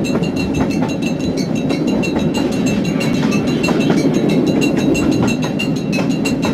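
Train running on rails: a steady low rumble with rapid, regular clicking of wheels over the track.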